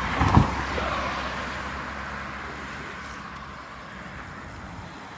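A thump right at the start, then a passing vehicle's even road noise that slowly fades away.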